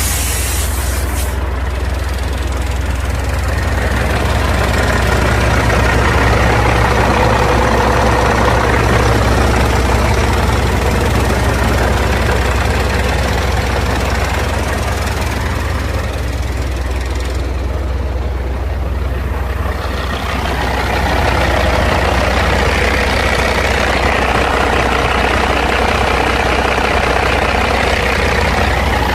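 Caterpillar C15 diesel engine of a Peterbilt 387 dump truck running with a steady low drone. The seller says it runs good, with no excessive top-end blow-by.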